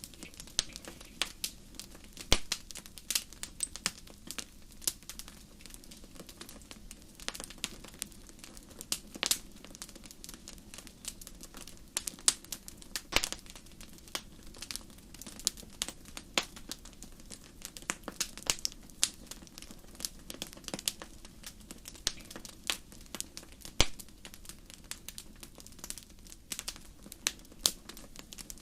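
Wood campfire crackling: frequent irregular sharp pops and snaps over a low, steady rush.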